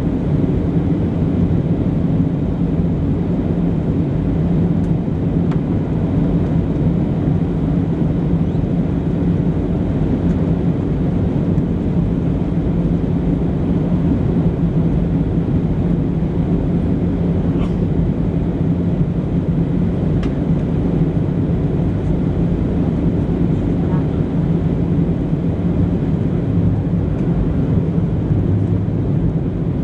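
Steady cabin drone inside a Boeing 737-700 in flight: CFM56-7B engine hum and airflow over the fuselage, unchanging throughout, with a couple of faint clicks.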